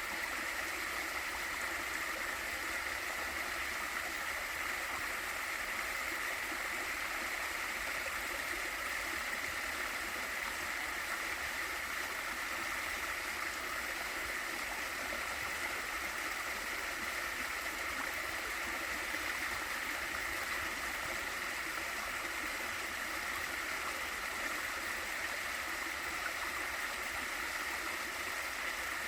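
Waterfall and valley stream water rushing and splashing steadily, with no change over the whole stretch.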